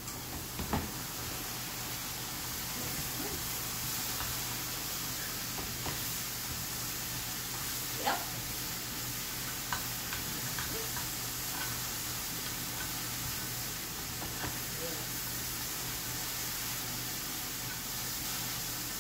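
Mushrooms and onions sizzling as they sauté in a pan, stirred with a spatula, with a few sharp knocks of the spatula against the pan, the loudest about a second in and about eight seconds in.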